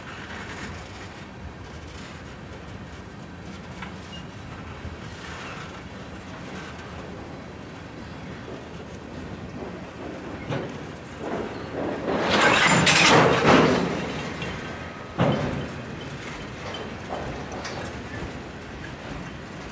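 Freight train rolling past on the rails with a steady rush of wheel noise, swelling louder about twelve seconds in, followed shortly by a single sharp clank.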